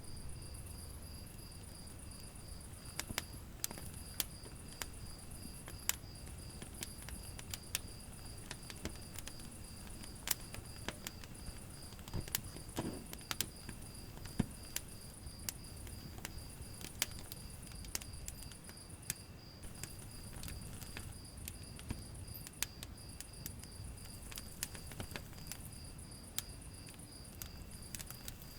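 Wood fire crackling, with scattered sharp pops over a low rumble of flame, and a cricket's steady high pulsed chirping behind it.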